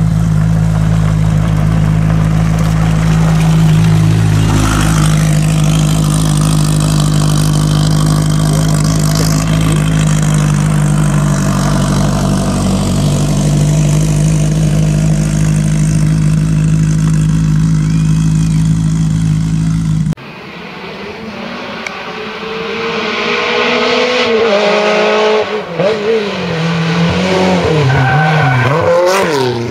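A Simca 1000 Rallye's rear-mounted four-cylinder engine running at steady revs for about twenty seconds. After a sudden cut, a race-prepared Simca 1000 engine is driven hard: it rises in pitch and drops back several times as it accelerates and changes gear.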